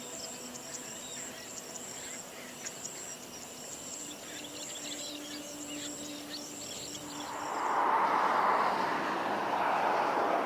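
A steady high insect drone with small bird chirps over it. About seven seconds in, a louder rushing noise swells up and drowns it out.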